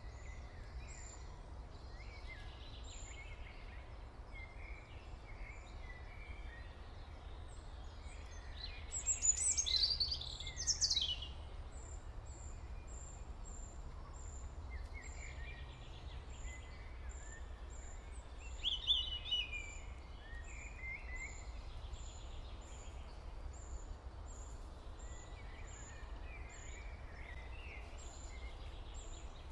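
Birds singing: a high, thin chirp repeated over and over, a little more than once a second, with warbling song phrases, the loudest about nine seconds in and again near nineteen seconds, over a steady low hum.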